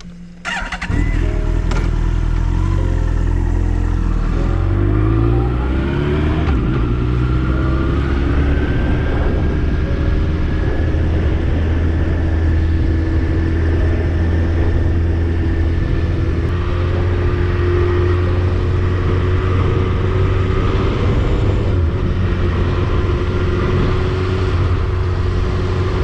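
Yamaha YZF-R1 inline-four engine cutting in suddenly about a second in. Its pitch rises over the next several seconds as the bike accelerates, and it then runs steadily under way.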